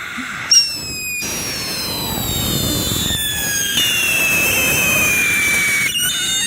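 Red Lantern Steam Locomotive firework fountain going off: a steady hiss of spraying sparks under several shrill whistles that slide slowly down in pitch. The whistles start afresh with sharp pops about half a second in, near four seconds in and just before the end.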